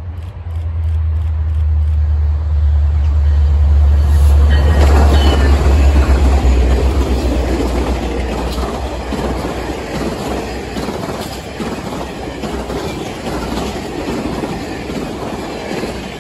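Passenger train passing close by. A strong low engine drone builds and peaks over the first several seconds as the locomotive goes by, then the steady rumble and clatter of the Norfolk Southern passenger cars' wheels on the rails carries on as the cars roll past.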